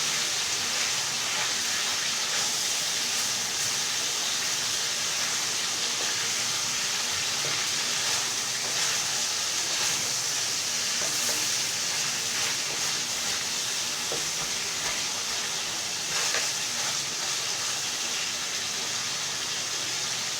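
Chicken pieces frying in hot refined vegetable oil: a steady sizzle with a few brief crackles.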